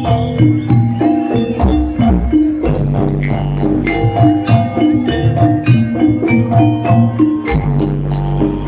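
Javanese jaranan gamelan music played live: struck pitched percussion and drums in a fast repeating pattern over sustained low gong-like tones.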